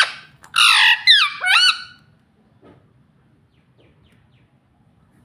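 Green Indian ringneck parakeet squawking: several loud, harsh calls in quick succession within the first two seconds.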